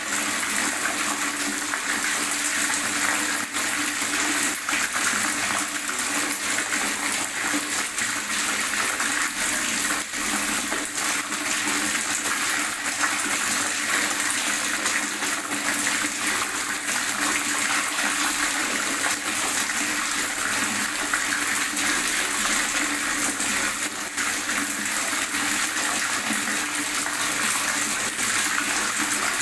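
Water gurgling and bubbling in a steady, continuous rush, with many small splashing clicks in it.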